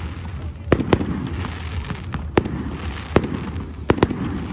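Fireworks bursting overhead: about six sharp bangs at irregular intervals, over a steady low rumble.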